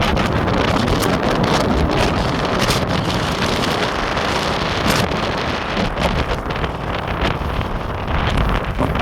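Strong wind buffeting the microphone with a heavy, uneven rumble and sudden gusts, over the steady rush of surf on the beach.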